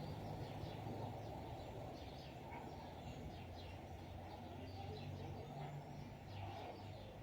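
Mondial electric fan running with a steady whir and low motor hum, slowly getting a little quieter. Birds chirp repeatedly in the background.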